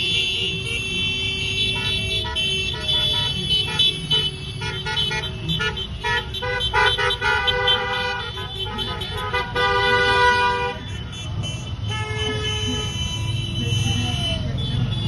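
Motorcycle engines running past while many horns honk in short, repeated toots, thickest through the middle and thinning out near the end.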